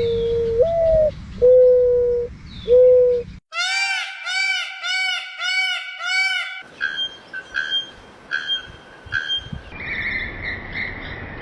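Bird calls in three abrupt segments: first a few low, steady whistled hoots, one bending upward; then about six repeated arching notes, each with a stack of overtones; then a faster run of higher chirping notes ending in a longer held tone.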